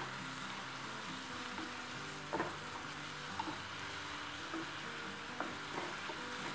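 Diced tomato, onion and green chile frying with a soft, steady sizzle in butter and oil in a skillet, stirred with a wooden spoon that knocks against the pan a few times, most sharply about two seconds in.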